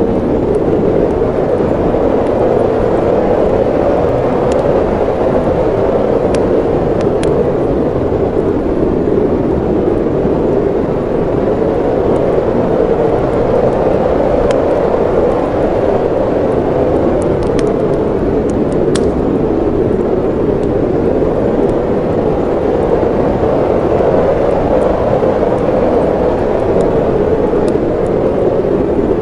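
Snowstorm wind blowing in a steady, deep rush, with scattered small pops and crackles of a wood fire in a fireplace.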